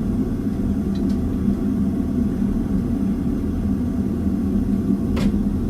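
Forge running steadily as it warms up, a constant low-pitched noise with no break, with a faint click about a second in and a sharper click about five seconds in.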